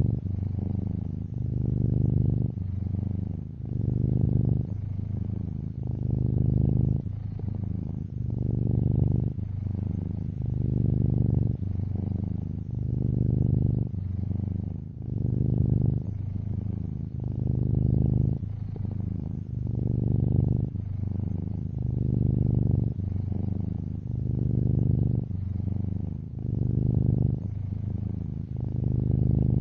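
Domestic cat purring steadily close to the microphone, a low rumble that swells and softens in turn with each breath, about one cycle every two seconds.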